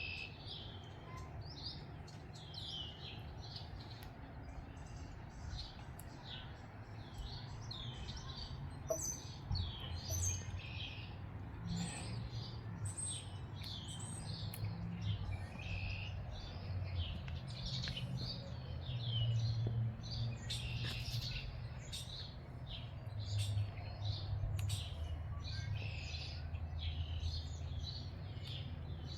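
Several songbirds chirping and singing in a dense, continuous chorus of short high notes, over a low wind rumble on the microphone that swells briefly about two-thirds of the way in.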